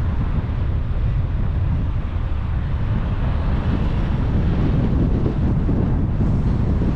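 A car driving steadily along a motorway: a constant low rumble of tyre and road noise with rushing wind.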